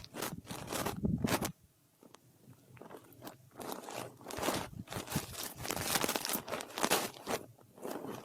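A brush sweeping over a microphone in quick, repeated scratchy strokes, with a short pause about a second and a half in.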